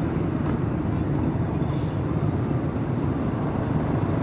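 Honda XR250 single-cylinder four-stroke dirt bike engine running steadily while riding, its rapid firing pulses blended with road and wind noise.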